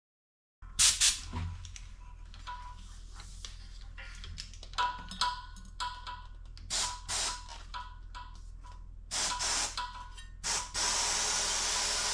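Clicks and knocks of handling, then short bursts of air hissing and, near the end, a steady hiss of air being pushed into a tubeless bicycle tire through its valve.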